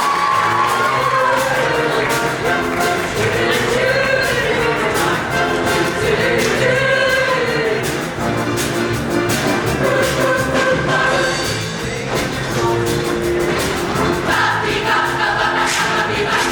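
Show choir singing over an instrumental band backing, with a steady beat.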